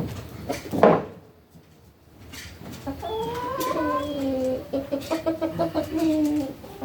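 Chickens calling: long, wavering squawks and clucks through the second half, after two sharp knocks in the first second.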